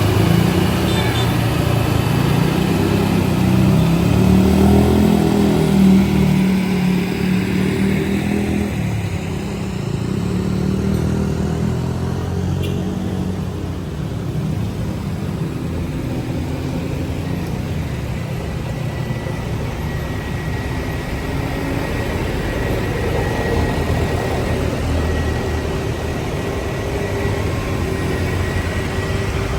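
Road vehicle engines running close by. A deep engine note is loudest for the first several seconds, then settles to a steadier, quieter hum.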